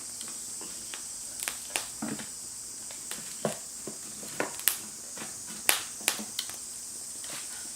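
Wood fire crackling in a Firebox stove: irregular sharp pops and snaps over a steady high hiss.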